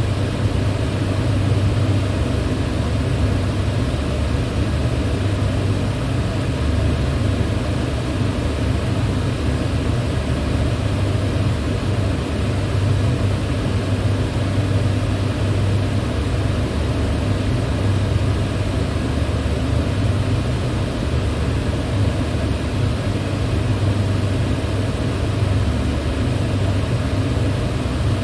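Electric fan running steadily: an even rush of air over a low hum.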